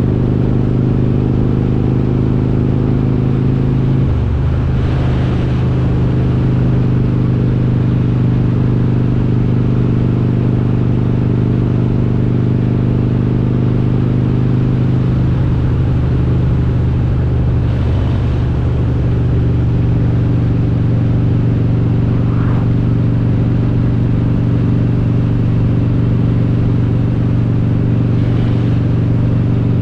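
Harley-Davidson Road King's 95-cubic-inch V-twin, built with an S&S big-bore kit and Super Stock heads, running steadily under way. Its note changes about four seconds in and again around fifteen seconds.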